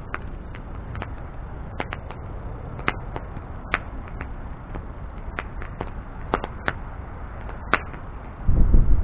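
Wood bonfire burning: a steady low rush of flame with sharp, irregular crackles and pops from the burning wood, about a dozen in all. Near the end a much louder low rumble sets in suddenly.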